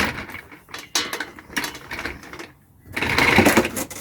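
Irregular mechanical clattering and rattling, as of hard parts being handled, with a short lull a little before three seconds in and a louder burst of rattling near the end.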